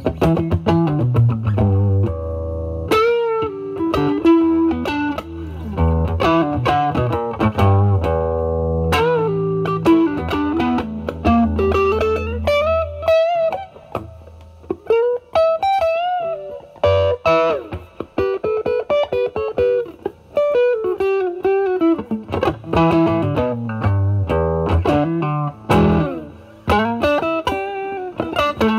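Electric guitar (Fender Stratocaster) played through a Vertex Steel String Clean Drive overdrive pedal, gain near 9, into the drive channel of a Marshall Valvestate amp. It plays a lightly overdriven blues-style improvisation: single-note licks with string bends and vibrato, mixed with chords and low-string notes.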